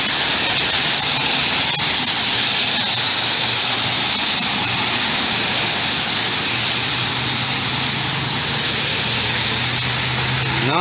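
Caltrain passenger train 111 passing, a steady rush of wheels and cars over wet rails, mixed with rain hiss. About six and a half seconds in, the low steady hum of its F40PH-2CAT diesel locomotive, number 916, comes in.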